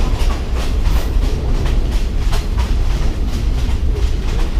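Heavy low rumble of a moving train heard from inside a shaking carriage, with irregular clacks and rattles several times a second as the car jolts over the track.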